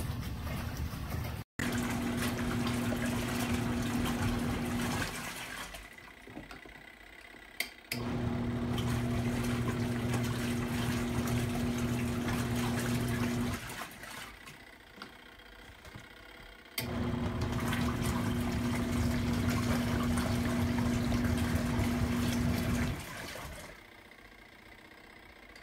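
Twin-tub portable washing machine's wash motor running in spells of about five seconds with pauses of about three seconds between, a steady hum over water in the tub: the stop-and-reverse rhythm of the wash cycle.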